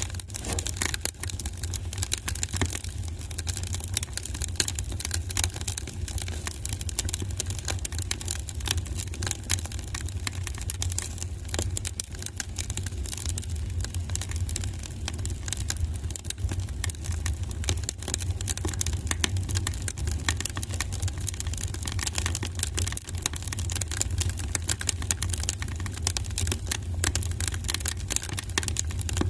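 Wood fire burning in a fireplace, crackling continuously with many sharp irregular pops and snaps over a steady low rumble.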